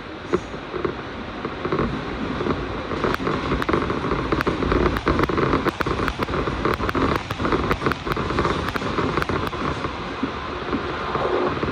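Train running, heard from inside the passenger car: a steady rumble of wheels on rail, with a quick scatter of sharp ticks and crackles through the middle seconds. It swells a little louder near the end.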